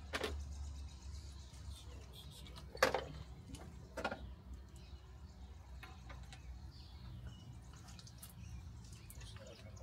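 Hand tools knocking a few times while spark plugs are being pulled from the engine, the loudest knock about three seconds in, over a low steady hum.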